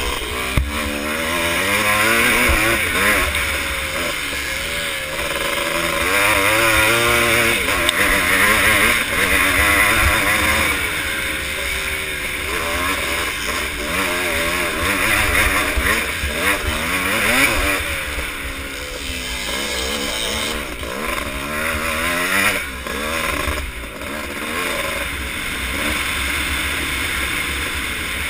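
Vintage motocross motorcycle engines running hard. The pitch rises and falls over and over as the throttle is opened and shut around the track.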